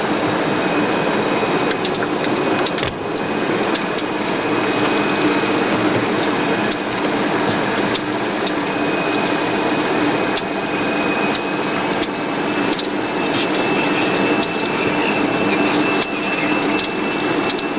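Steady flight-deck noise of a Boeing 737-200 on final approach: air rushing past the cockpit over the hum of its Pratt & Whitney JT8D engines, with faint steady tones and an occasional click.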